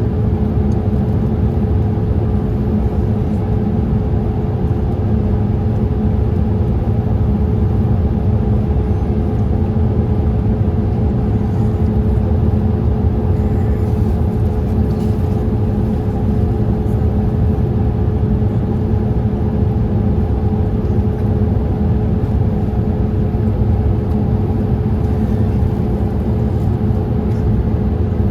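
Steady in-flight cabin noise of a Boeing 787-8 airliner: a constant low rumble of airflow and engines with a steady hum on top.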